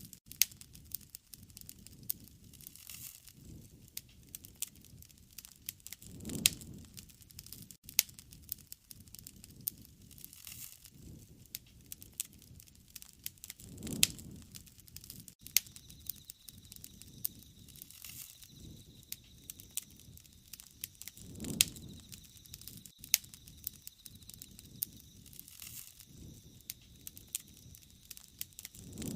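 Wood bonfire crackling with frequent sharp pops, under a low soft rush that swells and fades about every seven and a half seconds. A faint steady high tone comes in about halfway through.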